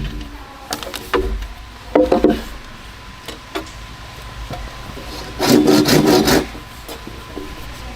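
Wood being handled: scattered light knocks and a rough scraping rub about five and a half seconds in, lasting about a second.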